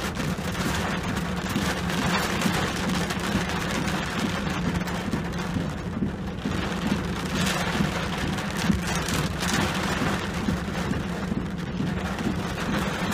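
Rain falling on a truck's windshield and roof, heard from inside the cab. Windshield wipers sweep across the glass every few seconds over a steady low hum.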